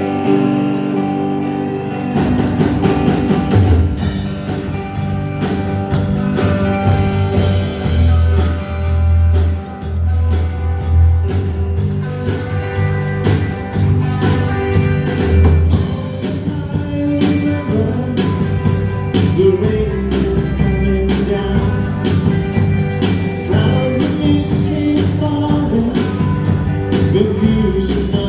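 Live rock band playing a song: electric guitars, bass guitar and drum kit, with the drums coming in about two seconds in, and singing over the band.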